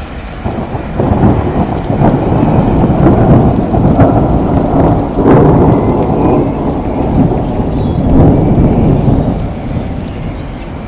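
Rolling thunder over steady rain. The rumble swells up about a second in, with a few sharper cracks within it, and dies away near the end.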